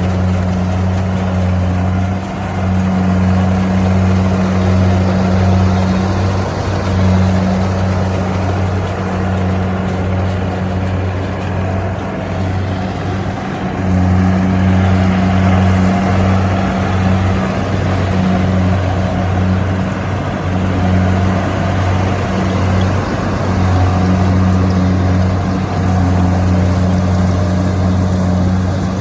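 Kubota combine harvester's diesel engine running steadily under load, a loud continuous drone with machinery noise over it.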